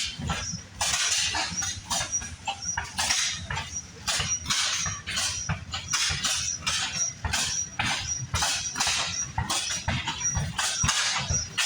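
Old engine running at a show, with an uneven chuffing, knocking beat and a short high squeak repeating regularly.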